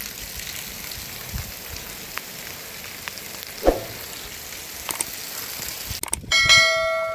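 A steady hiss with a few light ticks, then a little over six seconds in a metal object is struck once and rings in several clear tones that fade slowly.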